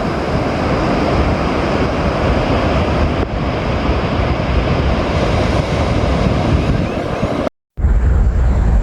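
Steady rush of ocean surf on the beach, mixed with wind buffeting the microphone. Near the end the sound cuts out for a moment and returns with a heavier low wind rumble.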